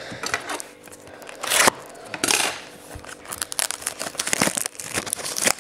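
Plastic wrapping on a box of trading cards crinkling and tearing as it is opened by hand, in irregular bursts with a louder rip about a second and a half in and another just after two seconds, then smaller crackles.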